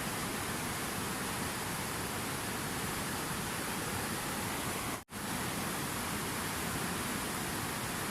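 Steady rushing water, an even hiss without rhythm, cut off for a split second about five seconds in before resuming.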